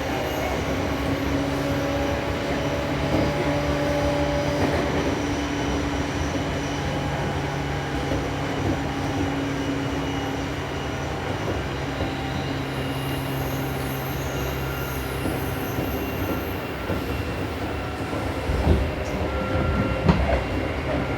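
Seibu New 2000 series electric train heard from inside a car, running along the line with a steady hum and continuous rail rumble. A couple of sharp knocks come from the wheels near the end.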